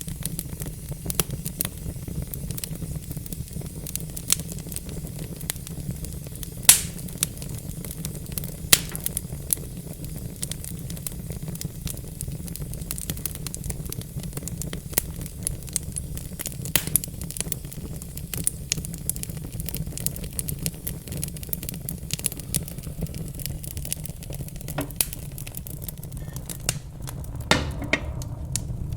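Wood fire crackling in a fireplace: frequent sharp pops and snaps over a steady low rumble of flame, with one louder pop about a quarter of the way in.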